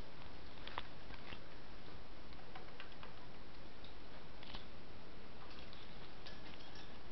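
Faint, scattered light clicks and ticks, a few a second at most, over a steady background hiss.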